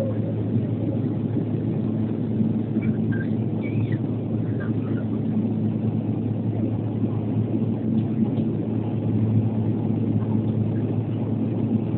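Steady drone of the Antonov An-140's turboprop engines and propellers on approach, a constant low hum over even engine and air noise.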